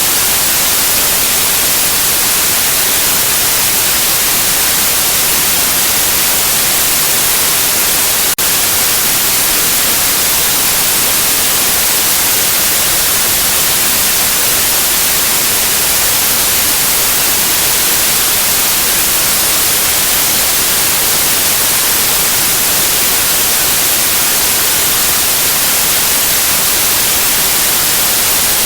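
Steady white noise, an even hiss strongest in the high end. A single faint click comes about eight seconds in.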